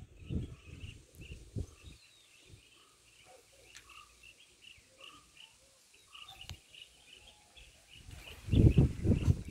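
Birds chirping in a steady run of short, high, quickly repeated calls, with a few lower notes between them. Bursts of low rumble come in the first two seconds and again near the end.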